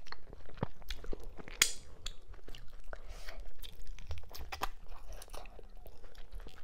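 Close-miked chewing and biting of a person eating cow skin and mackerel in okra-ogbono soup by hand: a steady run of short mouth clicks, the sharpest about one and a half seconds in.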